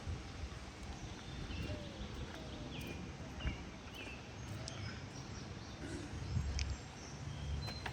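Outdoor ambience: scattered short bird chirps over a low steady rumble.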